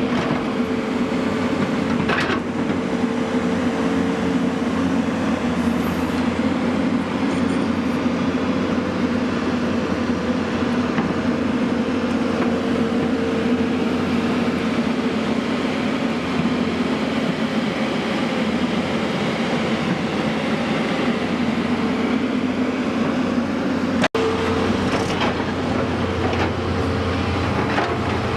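Heavy vehicle's diesel engine running steadily at a constant speed with a steady drone, briefly cutting out for a moment near the end.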